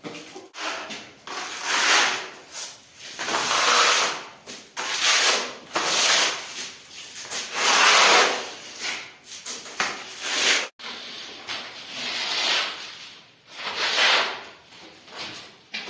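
Hand trowel scraping wet plaster across a wall in repeated strokes, about one every one to two seconds, pressed hard to spread and level it.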